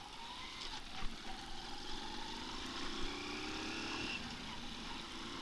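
Honda TMX125 Alpha's single-cylinder four-stroke engine running under way, its pitch climbing slowly as the bike gathers speed, over steady road and wind noise. Two short clicks come about a second in and again near three seconds.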